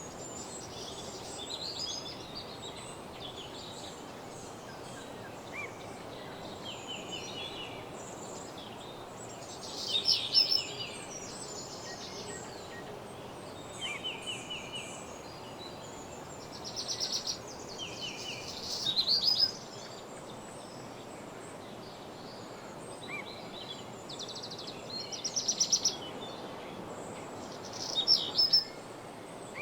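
Woodland birdsong: several birds singing short, rapid trilled phrases every few seconds over a steady background rush of ambient noise.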